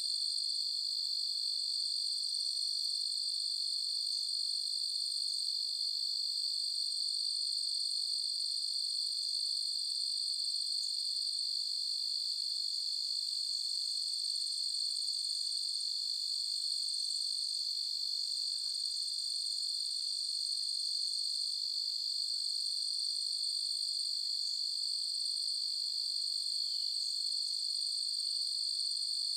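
Continuous chorus of crickets on a summer night, a steady high-pitched trill that doesn't vary in level, with faint scattered chirps above it.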